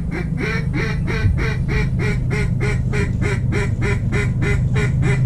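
A long, very regular run of duck quacks, about four a second, over a steady low hum.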